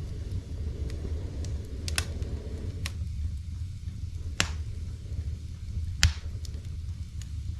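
Firewood burning in a brick fireplace: a steady low rumble of the flames with sharp crackles and pops every second or so, the loudest about six seconds in.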